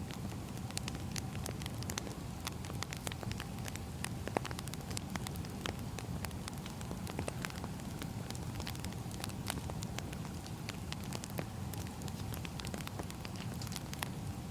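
Burning firewood crackling: many small sharp pops and snaps scattered over a steady low rumble.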